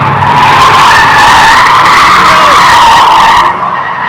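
Car tires squealing loudly as the wheels spin on pavement, a wavering high squeal that cuts off sharply near the end.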